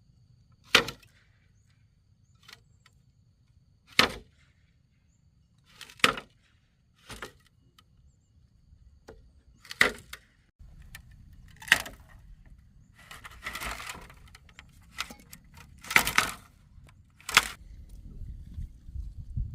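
A hand tool striking bamboo in a series of sharp, loud blows, one to three seconds apart and about eight in all, with a longer noisy stretch in the middle.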